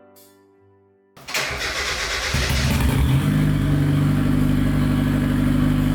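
Turbocharged Mazda Miata's four-cylinder engine being started: a second or so of cranking about a second in, then it catches and settles into a steady idle.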